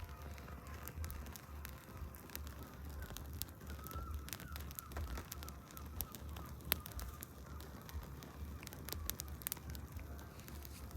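Wood campfire crackling, with irregular sharp pops and snaps; the loudest pop comes about two-thirds of the way in.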